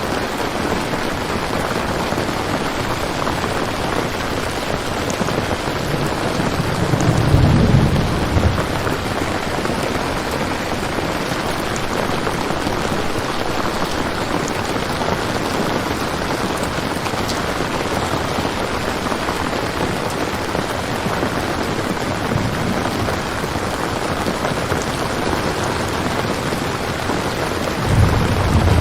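Steady rain ambience, with a low thunder rumble about seven seconds in and another starting near the end.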